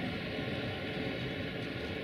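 Double-deck passenger coaches rolling slowly away along the station tracks: a steady, even running noise with no distinct clanks or horn.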